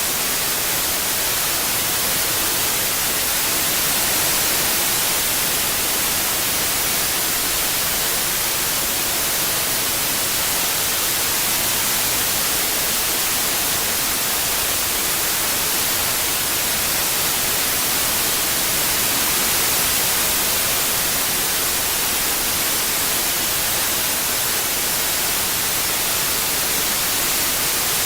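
Steady white noise, an even hiss strongest in the treble, swelling and easing slightly in loudness.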